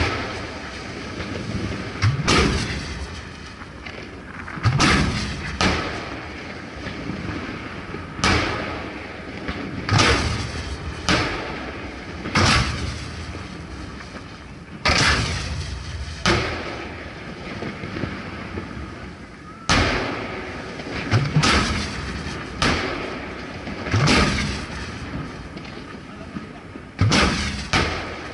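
Aerial fireworks shells being fired from mortars right next to the microphone and bursting overhead: a steady series of sharp booms, one every second or two, each followed by a long rolling echo.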